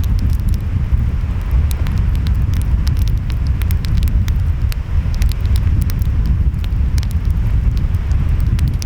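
Wood fire crackling, with many sharp pops, over a steady low rumble of ocean waves and wind.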